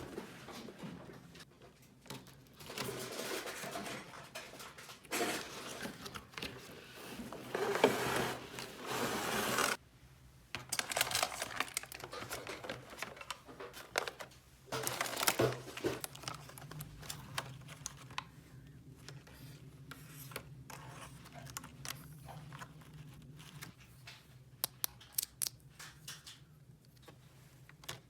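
Plastic toy packaging being torn open and rustled by hand, then light clicks and taps of small plastic toy pieces being handled.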